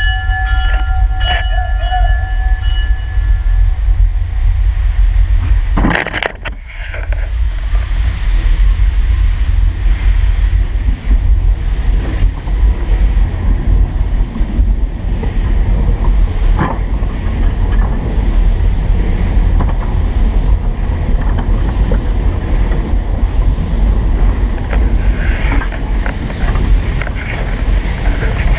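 Steam locomotive whistle sounding a chord of steady tones that stops about three seconds in, then the 1915 Baldwin steam locomotive and its cars running along with a heavy low rumble, wind buffeting the microphone.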